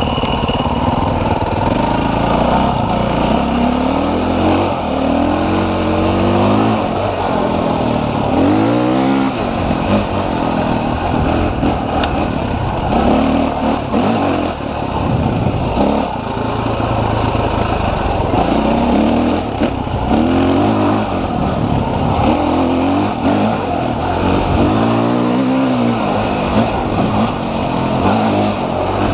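Dirt bike engine under way, its pitch climbing and dropping back again and again as the throttle is opened and closed.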